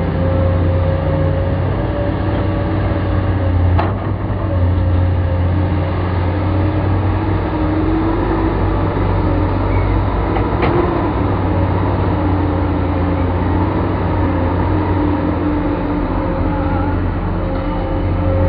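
Heavy diesel engine of excavator loading machinery running steadily, with a sharp click or knock about 4 seconds in and another about 11 seconds in.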